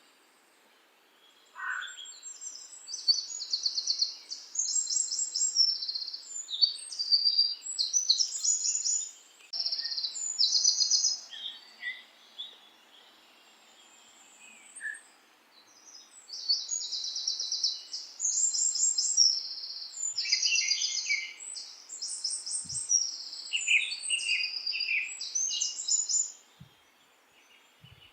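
Several songbirds singing together: fast, high trills and chirps overlapping in two long bouts, with a quieter lull around the middle.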